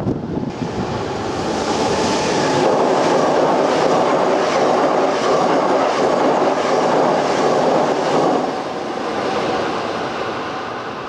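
Maroon Hankyu electric commuter train passing close at speed: a loud rush of steel wheels on rail with repeated clacks over the rail joints, building over the first couple of seconds and fading away as the train recedes over the last few seconds.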